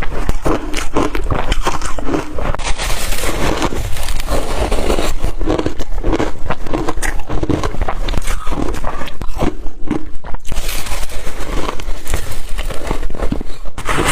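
Close-up crunching of a mouthful of blender-crushed ice, bitten and chewed in quick repeated crunches, with a short lull about ten seconds in.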